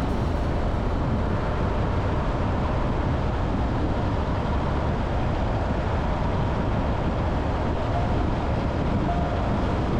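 Steady road and engine noise of a car driving along a road, an even rumble without change.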